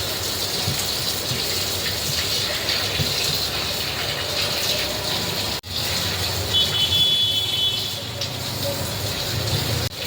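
Steady rush of running water, such as from a tap, breaking off for an instant about halfway through. A brief high tone sounds a little after the middle.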